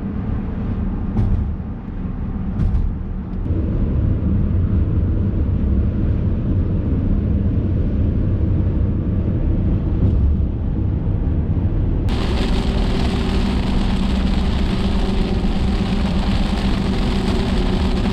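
Diesel BMW E70 X5 SUV on the move: a steady low engine and road rumble with a drone under it. About twelve seconds in, a loud hiss reaching high into the treble joins it, then cuts off suddenly just before the end.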